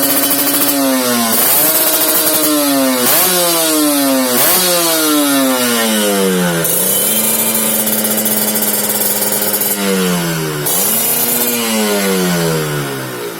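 Kawasaki Ninja R/RR two-stroke single-cylinder motorcycle engine revved through an aftermarket AMS exhaust, with a crisp, ringing note. There are several quick blips that rise fast and fall back slowly, a steady idle in the middle, and one more rev a little past halfway.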